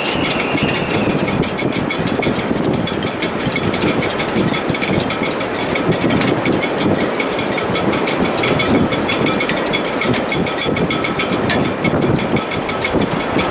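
A sailboat's shrouds and rigging in a gale: a steady, loud rush of wind through the rigging, with faint high whistling tones from the wires.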